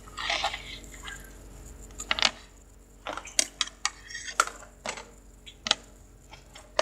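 Small hard plastic containers, such as slime tubs, clicking and knocking as they are picked up and set down. A brief rustle comes at the start, then about a dozen sharp taps.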